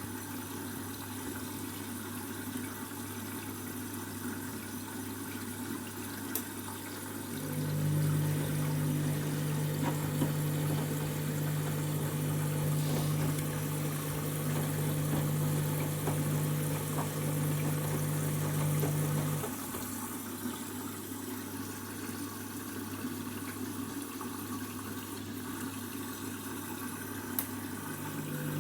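Candy Grand'O Vita washing machine taking in water for the wash, with water running in and a steady low hum. A louder hum comes in about a quarter of the way through, stops about two-thirds through and starts again at the end.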